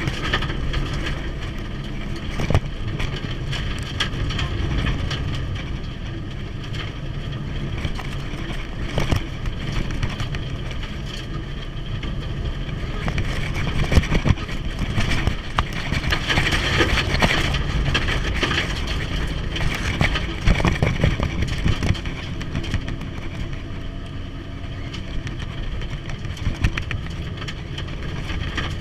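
Mitsubishi Evo's turbocharged engine running under way, heard from inside the cabin, with frequent knocks and rattles from the rough road surface; it grows louder and busier for a few seconds around the middle.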